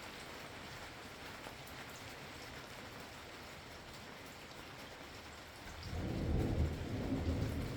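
Steady rain pattering, then about three-quarters of the way through a low rolling rumble of thunder swells in and keeps rumbling.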